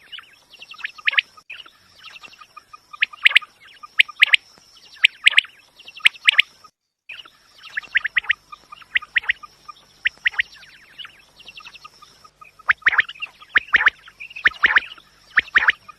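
Quail calling over and over, a recorded call used to lure quail for hunting: short phrases of rapid notes repeated about once or twice a second, with a brief gap about seven seconds in.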